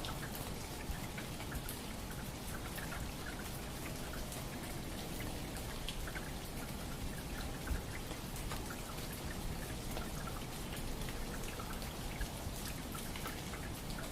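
Steady patter of many small water drops over a low, even rumble, with one slightly louder drop about eight seconds in.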